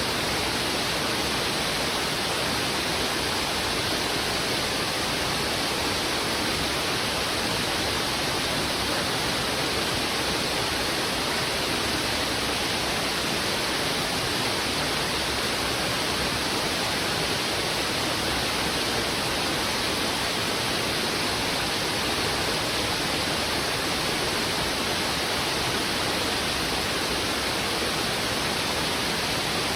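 Fast-flowing river water rushing over rocks: a steady, unbroken roar of noise with no separate splashes or changes.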